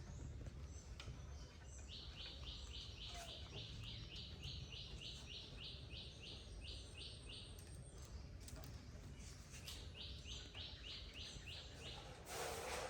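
A bird calling a rapid series of even, high chirps, about three a second, for several seconds, then again after a short pause. Under it is a low, steady background hum, and a brief burst of noise comes near the end.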